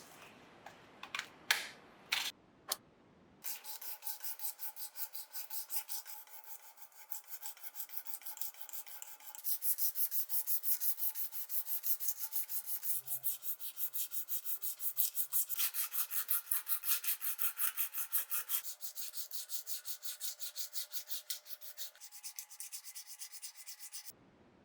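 A few short clicks, then fast, even back-and-forth abrasive rubbing by hand, several strokes a second. It gets louder through the middle and stops abruptly near the end.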